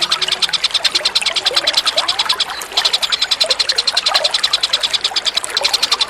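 A songbird's rapid, high-pitched repeated chipping trill, about ten notes a second, broken by a short pause about two and a half seconds in, over the gurgling of running water.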